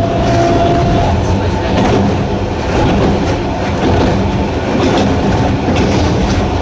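Sangi Railway Hokusei Line narrow-gauge electric train running, with a steady low hum from its nose-suspended traction motors and clicks of the wheels over rail joints. A higher whine fades out about a second in.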